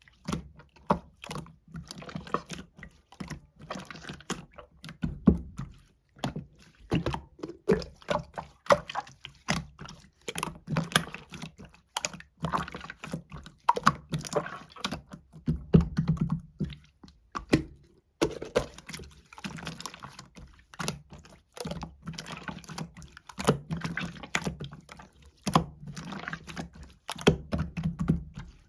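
Clear slime being squished and pressed by hand, giving a dense, irregular run of small sticky clicks and pops.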